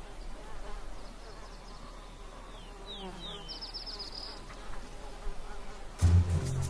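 Flies buzzing around a carcass, with a few short, faint high chirps about halfway through. Music comes in louder about six seconds in.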